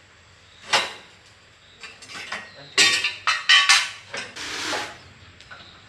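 Metal clanks and knocks from tools and generator parts being handled: one sharp clack, then a cluster of rattling knocks, then a short scrape.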